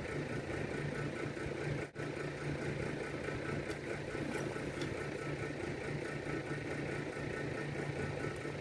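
Steady low machine hum, with a brief break about two seconds in and a few faint ticks.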